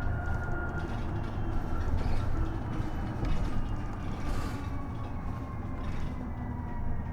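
Isuzu Erga EV battery-electric bus running, with low road rumble and the electric drive's thin whine, which falls slowly in pitch over the last few seconds as the bus slows.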